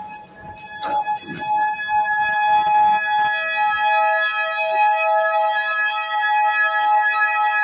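Two-tone electronic siren sounding steadily, switching back and forth between two pitches, the kind of alarm raised on a ship under attack. A few sharp knocks come about a second in.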